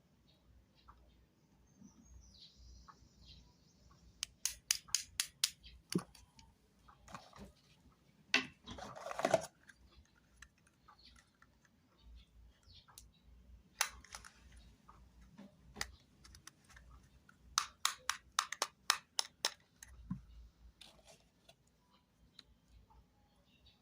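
Two quick runs of sharp clicks, about five a second, with a short rustling scrape between them and scattered single ticks.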